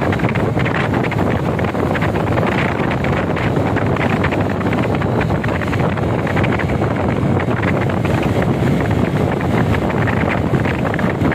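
Steady, loud wind buffeting the microphone of a riding motorcycle, with road noise beneath it.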